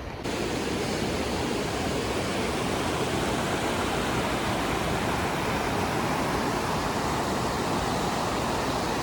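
Waterfall rushing: a steady, even wash of falling water with no rhythm or pauses.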